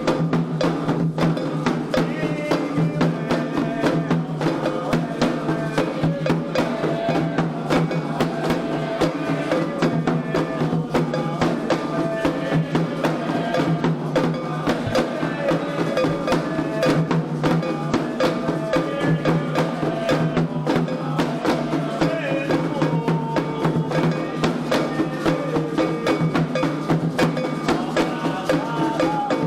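Candomblé ritual music: atabaque drums and struck percussion keep up a fast, steady rhythm while voices sing a chant.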